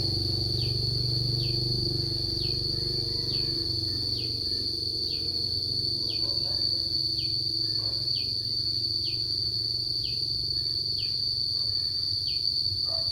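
Insects calling: a steady, high-pitched trill, with a short falling chirp repeating about twice a second over a low steady hum.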